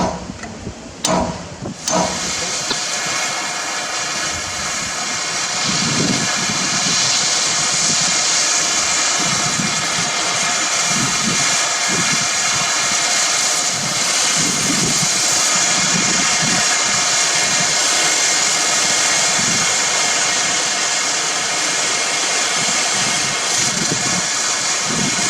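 A heavy diesel engine of earthmoving or haulage equipment comes in loud about two seconds in and runs steadily, with a strong hiss over it. A few short knocks come just before.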